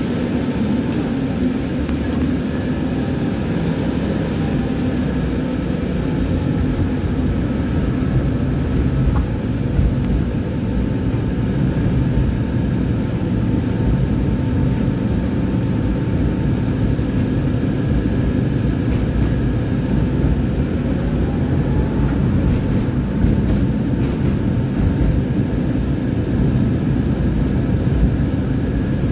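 Tram running along its line: a steady, loud low rumble of wheels on the rails and running gear, with faint thin whines on top.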